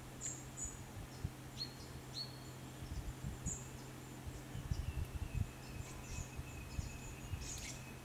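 Small birds giving short, high chirps and chip calls scattered through, with a thin steady high tone that comes in about halfway. Soft low thumps and a steady low hum sit underneath.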